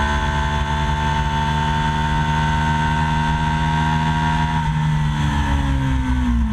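Aprilia RSV Mille's 998 cc V-twin engine running while the bike is ridden. The revs sink slowly, then drop further about two-thirds of the way through before picking up again near the end.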